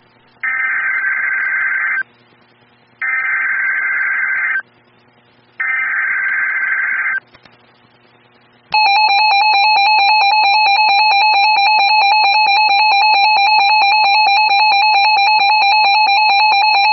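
Emergency Alert System SAME header: three warbling digital data bursts of about a second and a half each, separated by short gaps. About halfway through comes a loud, steady, harsh two-tone attention signal that keeps sounding, marking the start of a new weather warning.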